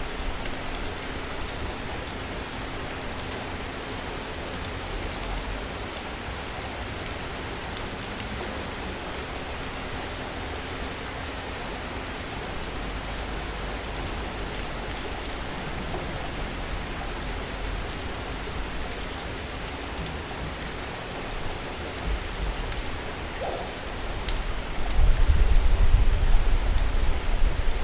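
Steady rain falling in a city, an even hiss of drops. Near the end a low rumble swells up under the rain and the whole sound gets louder.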